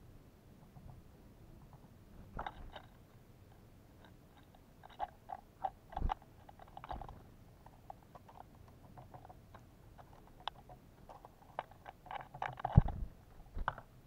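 Irregular pecking taps, clicks and crunches at a bird feeder holding sunflower seeds and suet, as birds feed on it, with a louder knock near the end.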